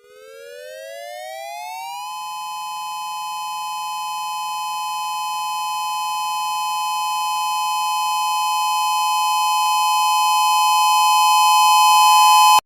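Two-tone siren winding up in pitch over about two seconds, then holding a steady wail that grows louder until it cuts off suddenly near the end.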